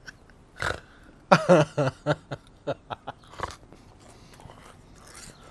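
A man's brief laugh, followed by a run of short mouth clicks as he bites and chews a french fry.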